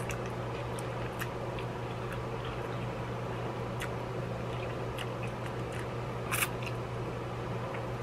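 Noodles being eaten with a fork: small wet mouth clicks and chewing, with one short louder slurping noise a little over six seconds in, over the steady low hum of an electric fan.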